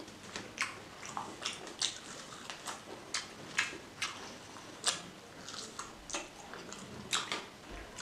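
Close-up wet chewing of pork and rice: a string of sharp mouth smacks and squelches, irregular, about two a second.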